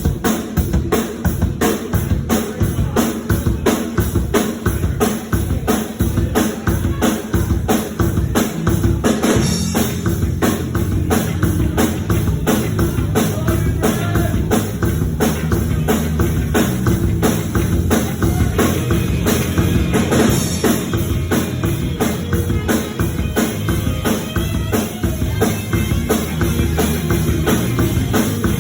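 A band's demo song playing: a full drum kit with kick and snare keeps a fast, steady beat under pitched instruments.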